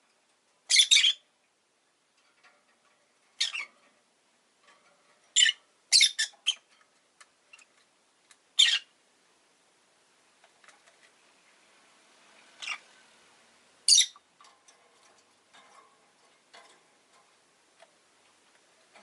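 Rosy-faced lovebird giving short, shrill squawks, about eight separate calls a second or two apart, with fainter chirps between them.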